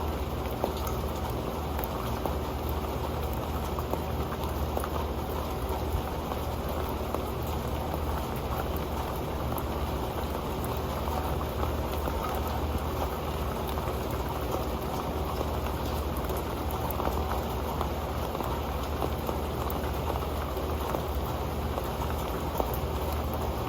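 Steady rain falling onto an old pan: a dense, even patter of small drop ticks over a constant rain hiss.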